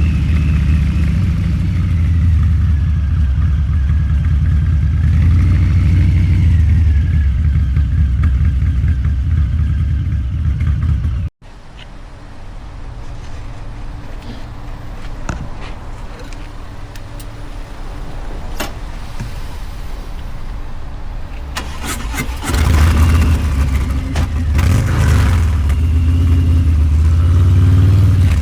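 Harley-Davidson Low Rider's 129-cubic-inch V-twin running loud through a Two Brothers Racing exhaust. About eleven seconds in, the sound cuts off abruptly and comes back as a quieter low rumble with scattered clicks. From about twenty-three seconds the engine is loud again, with the revs rising and falling.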